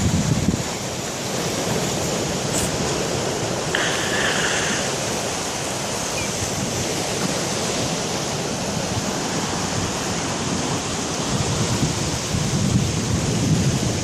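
Stormy sea: waves breaking and surf washing in a steady rush, with wind gusting over the microphone about a second in and again near the end.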